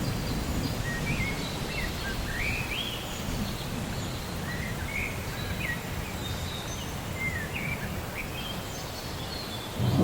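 Birds calling with short, rising and falling whistled notes over steady rain and a low rumble of thunder, which swells up louder right at the end.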